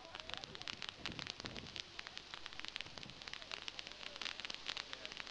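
Fireworks crackling: a faint, dense stream of small pops and crackles, like crackle stars bursting.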